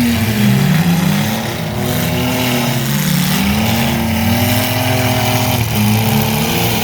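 Several mini truck engines running together on the track, each one's pitch rising and falling as the drivers let off and get back on the throttle.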